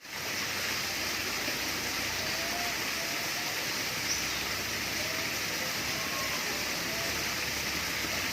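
Steady rush of falling water, as from a waterfall or fountain, with a few faint short chirps over it.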